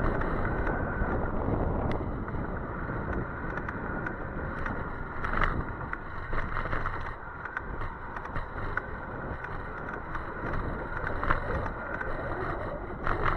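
Wind buffeting the microphone over steady road noise from a moving e-bike, with a few short knocks.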